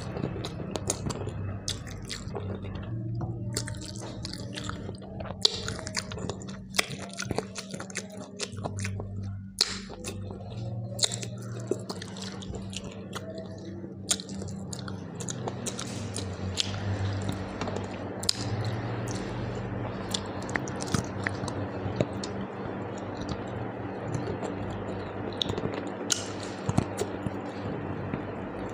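Close-miked chewing of a mouthful of rice and curry, with many short wet mouth clicks and smacks, over a steady low hum.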